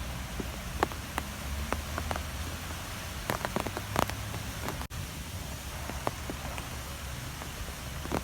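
Strong wind blowing steadily with a low rumble, over which scattered short ticks sound like rain or small debris striking a surface. The sound drops out very briefly just before five seconds in.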